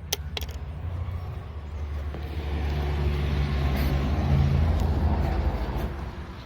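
A motor vehicle passing by: its engine and tyre noise grow louder to a peak about four seconds in, then fade away. Two sharp clicks come right at the start.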